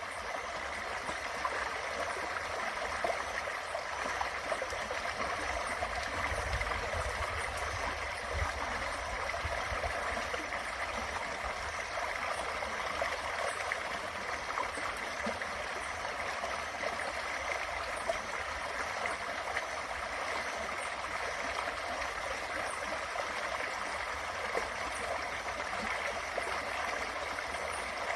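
Small creek flowing steadily, an even rush of running water.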